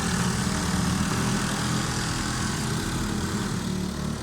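Small engines of bumper boats running together, a steady mechanical drone like a lawn mower.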